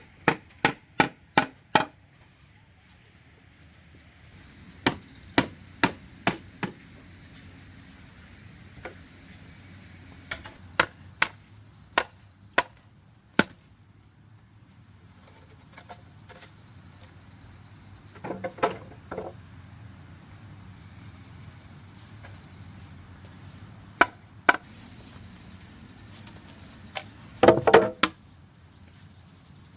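Hand-tool blows striking hard material: short series of sharp chopping or hammering strikes, about three or four a second, with pauses between the series.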